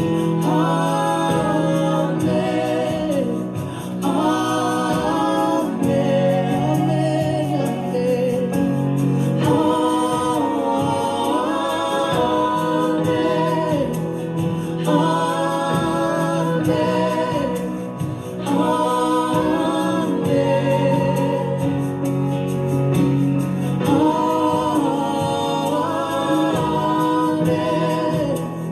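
Several voices singing a slow gospel worship song together in long, drawn-out phrases, over a steady low held chord that shifts twice.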